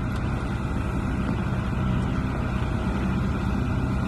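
Motorboat engine running steadily under way, heard from on board, with a low, even hum over water and wind noise.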